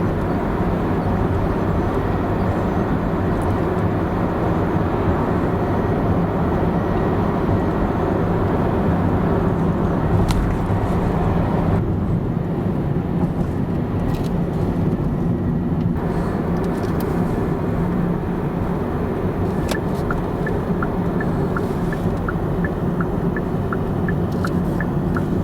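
A car on the move: steady engine and road noise. A faint, regular ticking, about two a second, comes in over the last few seconds.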